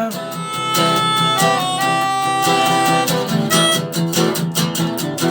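Live acoustic rock band playing an instrumental passage between sung lines: strummed acoustic guitar with a held, sustained melody line over it.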